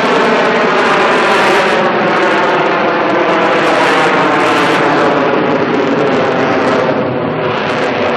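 AV-8B Harrier II's Rolls-Royce Pegasus turbofan running loud: a steady jet roar with a whine whose pitch sinks slowly.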